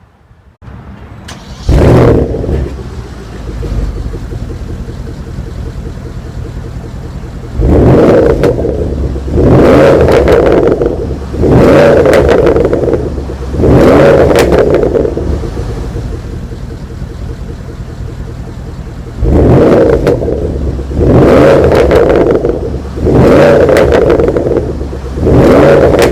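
Porsche Panamera Turbo's twin-turbo V8 starting up with a loud flare about two seconds in, then settling to idle. The exhaust is revved in two sets of four blips about two seconds apart, each rising and falling back to idle.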